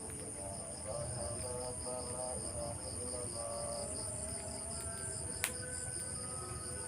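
Steady, high-pitched night chorus of crickets. Faint short pitched notes sound underneath in the first half, and a single sharp click comes about five and a half seconds in.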